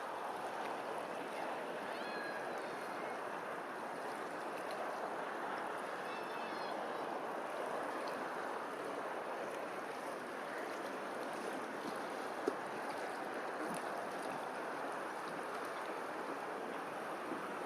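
Steady rushing outdoor noise, with a few faint high bird chirps about two seconds and six seconds in, and a single sharp click about twelve seconds in.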